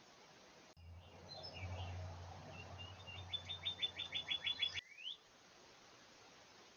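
Small songbird calling: a few scattered high chirps, then a rapid run of about a dozen quick high notes, ending in a short rising note, over a low steady hum.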